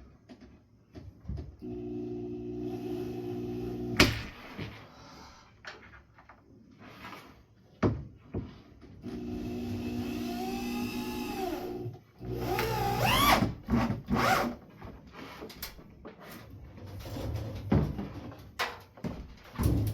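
Power drill driving a screw into a wall-mounted shelf arm: the motor runs steadily for about two seconds, stops with a sharp knock, then runs again for about three seconds and ends in a few short bursts that rise in pitch. Clicks and knocks of handling come in between the runs.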